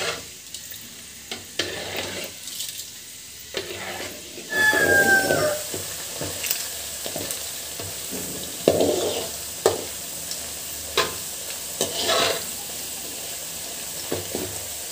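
Moong dal sizzling as it deep-fries in hot oil, with a strainer scraping and knocking against the pan several times. The sizzle grows louder about four and a half seconds in.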